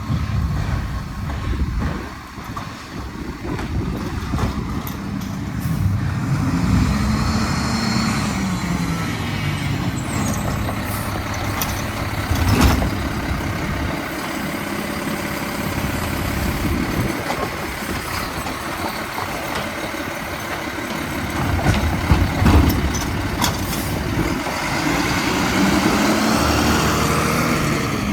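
Mack LEU garbage truck with a Bridgeport rear-loader body working: the diesel engine revs up and settles back twice, with sharp knocks about halfway through and again later.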